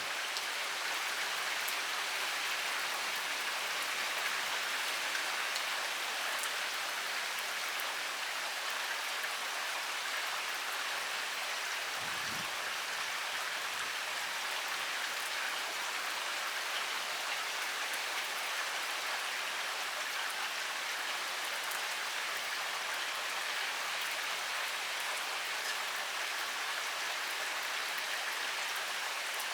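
Heavy rain pouring down steadily, an even hiss of many drops with no let-up.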